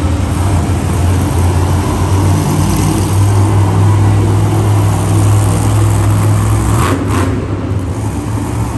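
Heavy vehicle engine running loud and steady, picking up about three seconds in and holding there.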